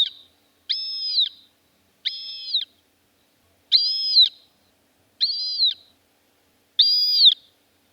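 Montagu's harrier calling: a series of high-pitched calls, each held about half a second with a quick rise and fall in pitch, repeated about every one and a half seconds.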